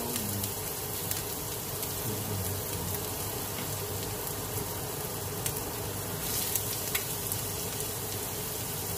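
Chopped onion frying in hot oil in a wok: a steady sizzling hiss with scattered crackles and pops, briefly livelier about six seconds in.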